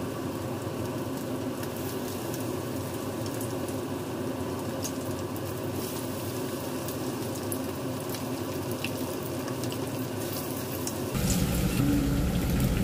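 Batter-coated chicken wings deep-frying in a pan of hot oil, a steady sizzle as more wings are lowered in. About eleven seconds in, a louder low rumble joins the sizzle.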